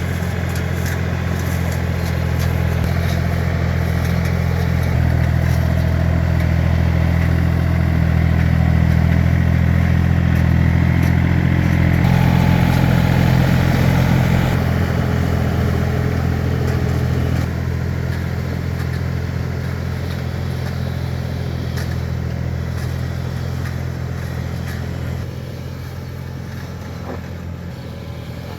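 Tractor engine running steadily with a low, even throb. It grows louder toward the middle, then eases off in two steps, once after about 17 seconds and again near the end.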